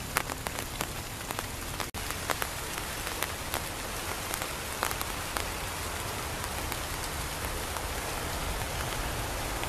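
Heavy tropical rain falling on foliage: a steady hiss with many sharp drops tapping close by, most of them in the first few seconds, and a brief gap about two seconds in.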